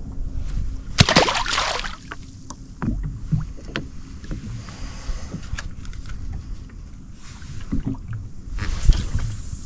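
Wind rumbling on the microphone, with small knocks and clicks from handling tackle. About a second in, a short loud splash as a small fish is dropped back into the sea.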